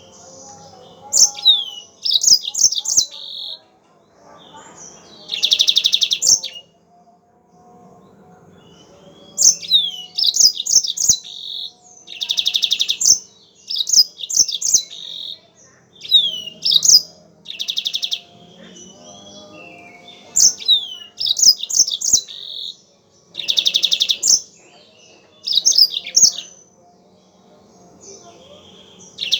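Yellow-fronted canary (Mozambique canary) singing: loud phrases of quick, high sweeping notes mixed with buzzy trills, with short pauses between them.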